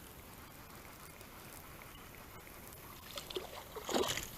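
Faint water lapping and trickling around a small boat, with a few short, louder sudden sounds near the end.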